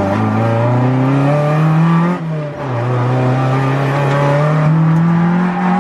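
Toyota AE86's BEAMS 3S-GE four-cylinder engine under hard throttle, its pitch climbing steadily for about two seconds, dipping briefly, then climbing again.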